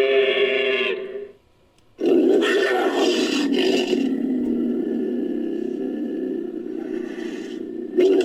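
Made-up dinosaur roar sound effect, built from big-cat recordings. A pitched call cuts off about a second in. After a short gap, a long, harsh roar starts suddenly and slowly fades, and another loud call begins near the end.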